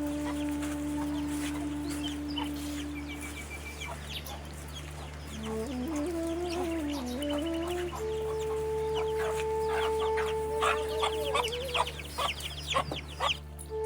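Chickens clucking over a flute melody of long held notes and a slow, wavering phrase. The clucks come thick and loud in the last few seconds.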